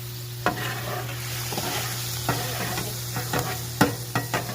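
Brussels sprouts and bacon sizzling on a flat-top Blackstone griddle, with a steady hiss and several sharp clicks and scrapes of a metal spatula as the pile is pushed together.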